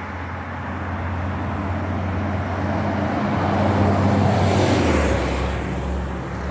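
Low, steady engine hum under a rushing noise that swells about four to five seconds in and then eases off, like traffic or a passing motor vehicle.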